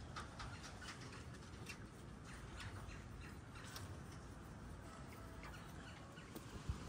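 Faint scattered short bird chirps and ticks over a steady low rumble.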